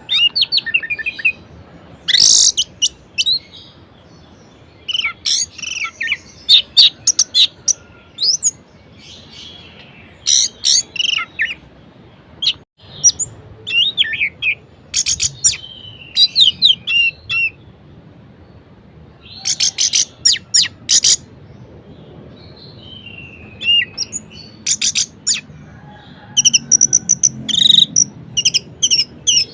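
Orange-headed thrush (anis merah) singing a varied song: clusters of sharp, very high rapid notes alternate with sliding whistled phrases, in short bursts with brief pauses between.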